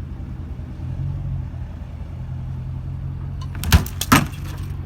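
A car's engine running with a steady low rumble, broken by two short loud sounds close together near the end.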